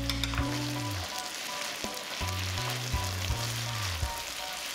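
Ground pork stir-frying in a hot nonstick pan, sizzling steadily as a silicone spatula turns it, with a few light spatula ticks. Soft background music with low bass notes plays underneath.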